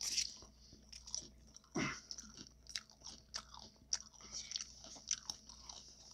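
Close-miked chewing of tacos: wet mouth clicks and small crunches, with louder crunching bites at the start and about two seconds in.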